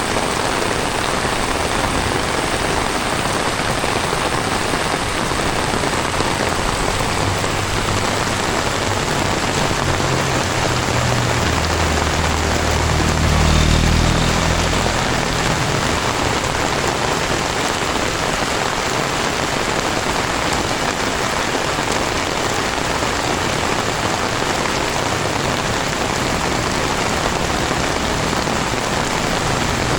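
Heavy tropical rain falling steadily, a dense even hiss of rain on surfaces. A low rumble swells and fades around halfway through.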